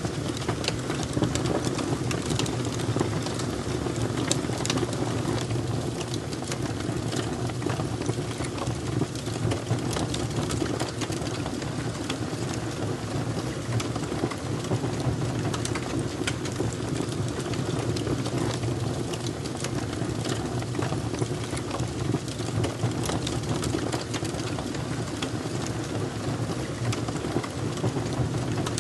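Wood fire crackling steadily, with many small irregular pops and snaps over a constant low rumble.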